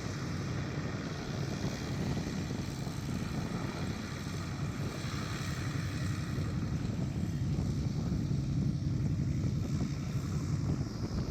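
Cessna T210L Turbo Centurion's turbocharged six-cylinder piston engine and propeller running steadily, growing a little louder in the second half.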